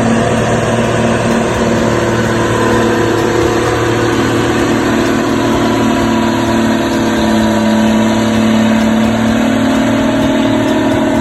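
Old logging truck's engine running loud and steady, its pitch shifting as the engine speed changes partway through.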